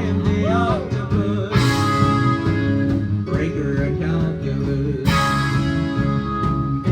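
Live band playing an instrumental passage with guitar, new chords struck about a second and a half in and again about five seconds in.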